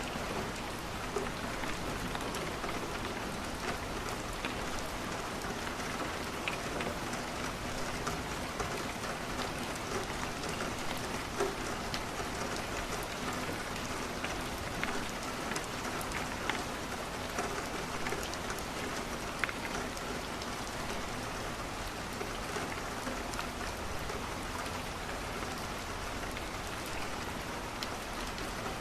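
Steady rain falling against a window, with scattered sharp clicks every few seconds.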